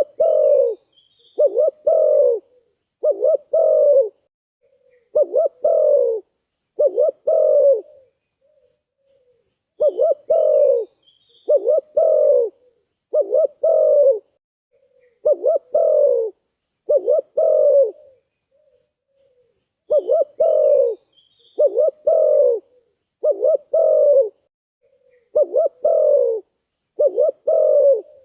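Spotted dove (tekukur) cooing: runs of deep coo notes, about eight or nine in each run, the run starting over about every ten seconds after a short pause. Faint high chirps of small birds come at the start of each run.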